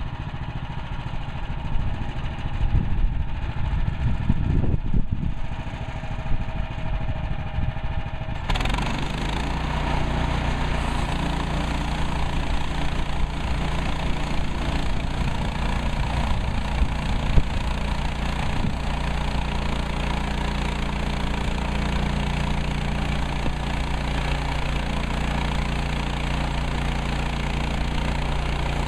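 Engine of a Woodland Mills HM130 Max portable sawmill running, with some clatter at first; about eight seconds in the sound changes suddenly to a steady, fuller drone that holds on.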